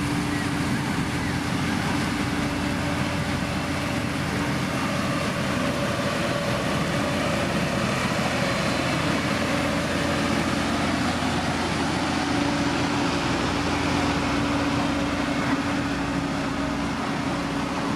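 Diesel engine of heavy road-building machinery running steadily, with a constant hum and no changes in pitch or load.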